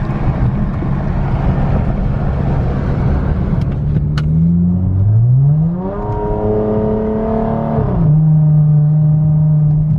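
Exhaust drone of a 2014 Dodge Challenger SXT's 3.6-litre V6 with its resonator and mufflers deleted (straight-piped), heard inside the cabin while driving. It is pretty loud; the revs climb about five seconds in, hold, then drop sharply at about eight seconds and settle into a steady drone.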